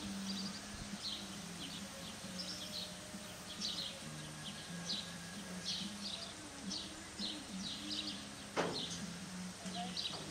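Small birds chirping repeatedly over a steady low hum, with one sharp knock near the end.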